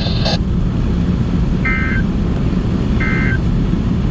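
Steady low road and engine rumble of a moving car heard from inside the cabin, with three short electronic beeps about 1.3 seconds apart.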